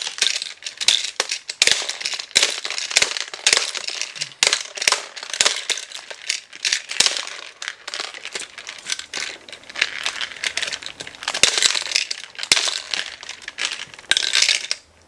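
Small plastic toy pieces clattering and rattling in a tabletop shooting game: many sharp clicks mixed with crinkly rustling, busiest about eleven seconds in and again near the end.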